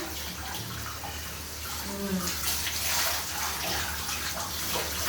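Running water splashing steadily as a Labrador puppy is washed, a little louder about three seconds in.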